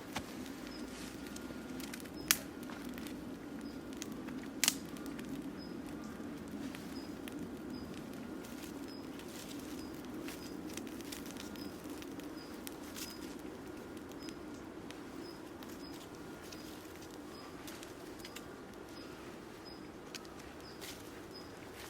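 Wood fire crackling steadily, with two sharp pops about two and five seconds in, and a faint high chirp repeating throughout.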